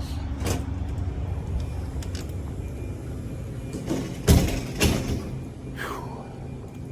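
Low steady rumble of idling trucks, then two loud knocks about four and five seconds in as a door is pushed open and swings shut; the rumble is much quieter afterwards.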